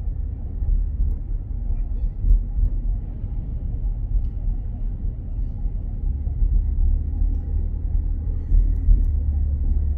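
Road noise inside a moving car: a steady low rumble that grows a little louder about halfway through.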